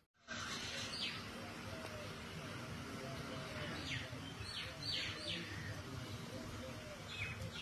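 Birds chirping: a handful of short calls that fall in pitch, several in quick succession about four to five seconds in, over a steady background hiss of outdoor ambience.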